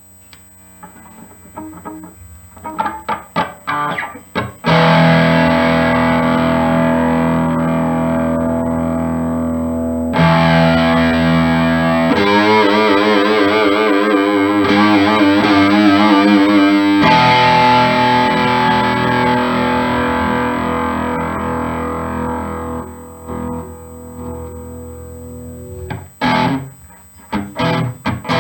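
G&L Legacy Tribute electric guitar with a Seymour Duncan Little '59 mini humbucker in the bridge position, played through an amp's distorted channel. A few short picked notes give way to long ringing chords, wavering in the middle, that fade before more picking near the end.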